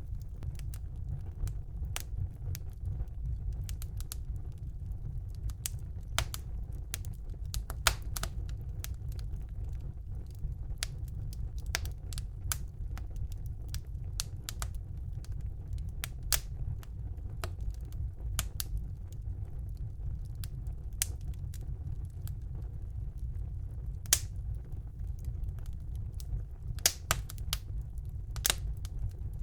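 Wood fire burning in a fireplace: a steady low rumble of the flames with irregular crackles and sharp pops of burning logs, a few louder pops scattered through.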